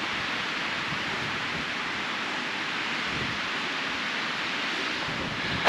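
Strong wind blowing steadily in a windstorm, an even rushing noise with no break.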